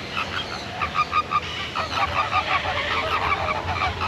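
A flock of large waterbirds honking: many short, goose-like calls repeat and overlap, growing denser from about two seconds in.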